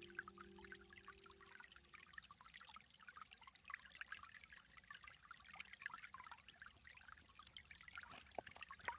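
Faint trickling and splashing of a small woodland creek and waterfall, a dense patter of tiny water sounds. The tail of background music fades out in the first two seconds.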